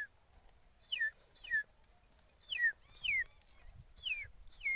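A man whistling a mimicry of a small chicken chick's call: a string of about seven short, high peeps, each sliding down in pitch, spaced about half a second to a second apart.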